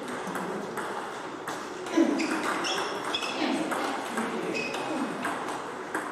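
Table tennis rally: a celluloid-type ping-pong ball clicking sharply off paddles and the table in an irregular run of hits about half a second apart, with voices murmuring in the background.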